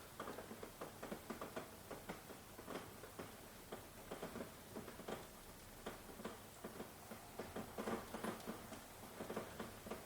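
Rain falling, with many irregular drops tapping several times a second over a faint steady hiss.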